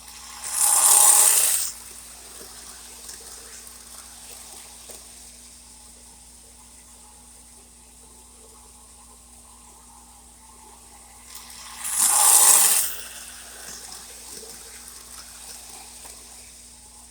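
O gauge model steam turbine locomotive and its passenger cars running around the track. The train's hissing, rushing noise rises loud twice, about a second in and again about twelve seconds in, for about a second each time, over a steady low hum.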